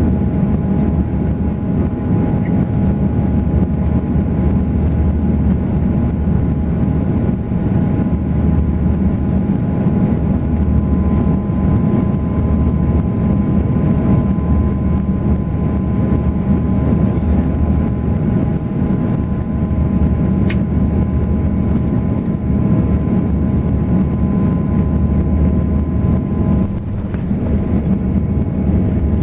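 Steady jet engine and airflow noise heard inside the cabin of an Airbus A340 airliner, a low rumble with a few steady whining tones that ease slightly near the end.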